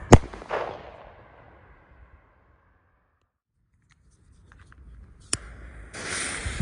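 A fireworks shell bursts with a single sharp bang just after the start, and the noise fades away over about a second and a half. Later comes a sharp click, then near the end the steady hiss of a jet lighter flame lighting the firework's fuse.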